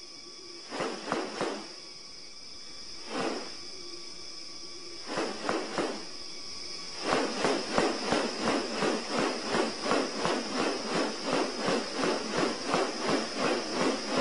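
Steady high-pitched insect drone of rainforest, with a few scattered rasping pulses that turn, about seven seconds in, into an even rhythm of about two to three rasps a second.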